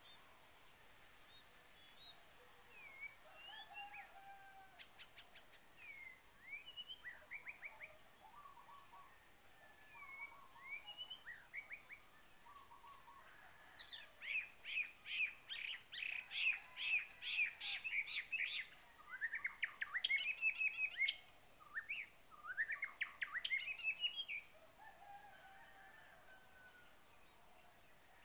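Birds chirping and calling: scattered short chirps at first, then a louder run of quick repeated notes and fast rising trills through the middle, which falls away a few seconds before the end.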